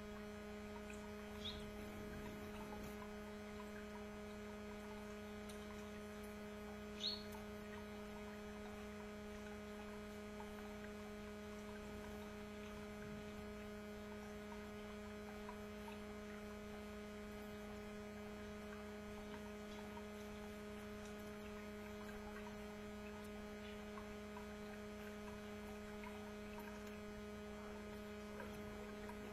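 Steady electrical hum, with two brief high chirps from canaries, about a second and a half and about seven seconds in.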